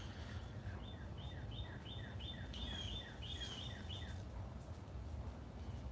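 A songbird singing a quick series of about ten identical notes, roughly three a second, that stops about four seconds in, over a steady low outdoor rumble.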